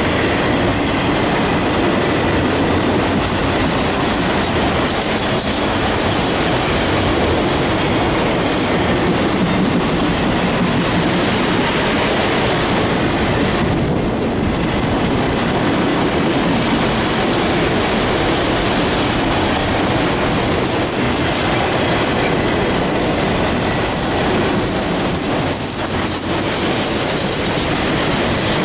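Freight train cars rolling past at close range: a steady rumble of wheels clacking over the rail joints, with some wheel squeal.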